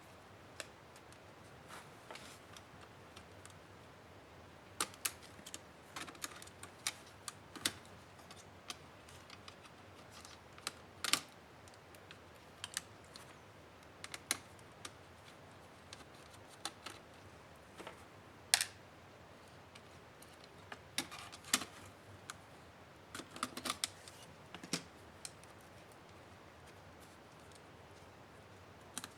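Irregular small clicks and taps of tools and plastic and metal laptop parts being handled during a laptop teardown, scattered with quiet gaps between them and a busier run of clicks in the latter part.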